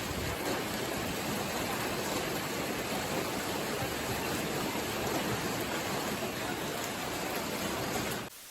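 A steady, even rushing noise that cuts off abruptly near the end.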